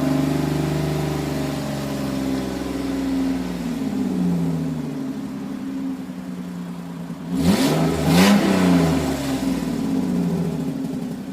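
Car engine running and being revved to burn off a Seafoam cleaner treatment: the revs hold, drop back about a third of the way in, then two quick, loud blips of the throttle come about two-thirds through.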